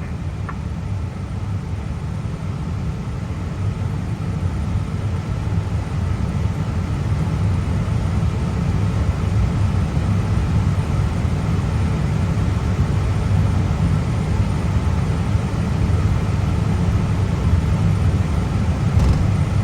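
Steady low rumble inside an Airbus A320 cockpit on the ground, engines at idle thrust during taxi, slowly growing louder, with a faint steady whine above it.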